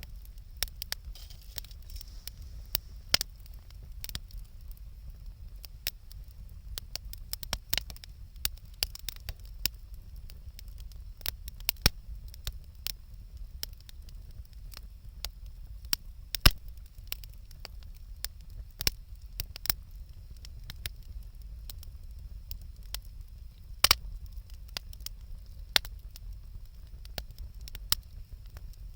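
Wood bonfire crackling, with irregular sharp pops, a few much louder than the rest, over a steady low rumble.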